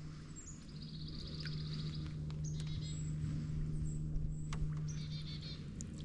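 Songbirds trilling in a swamp forest: two quick, rapid trills, one about a second in and one near the end. Under them runs a steady low hum, with a few light clicks or knocks.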